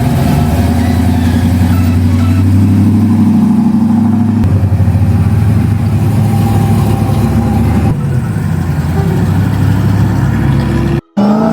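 Car engine running steadily, its note dropping about four and a half seconds in, with a brief break in the sound just before the end.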